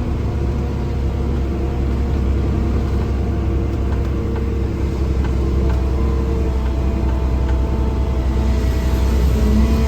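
Truck engine and road rumble heard from inside the cab while driving: a steady low drone with faint engine tones above it, growing a little louder near the end.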